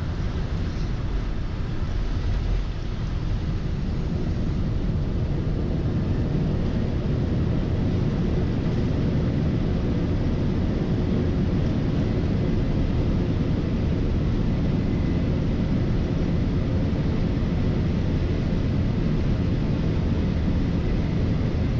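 Flight-deck noise of a Boeing 747-400 rolling out on the runway after touchdown: a steady low rumble of engines and wheels that grows a little louder about two seconds in, then holds.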